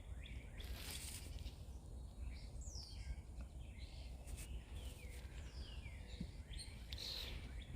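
Wild birds calling: short chirps that slide downward in pitch, repeated at irregular intervals, over a faint low rumble.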